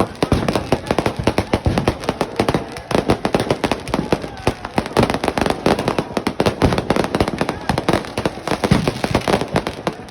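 Sky shot fireworks and firecrackers going off: a rapid, continuous run of bangs and crackles, many overlapping each second.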